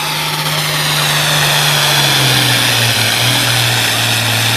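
Farm pulling tractor's engine running at full throttle, with a high whine over it. The engine note drops a little about two seconds in as it loads down.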